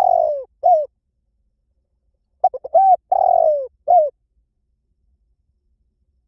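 Spotted dove cooing: the tail of one phrase just at the start, then a second phrase a couple of seconds in, a few short coos and one longer note that slides down in pitch.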